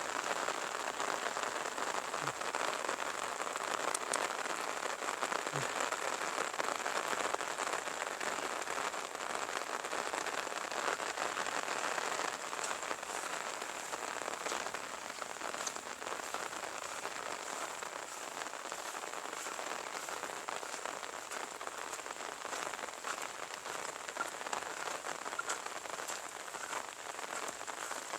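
Light rain falling steadily, a soft hiss dotted with the ticks of single drops.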